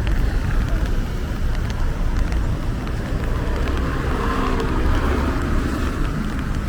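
Steady rumble of motor vehicles, a continuous low noise with a few faint clicks.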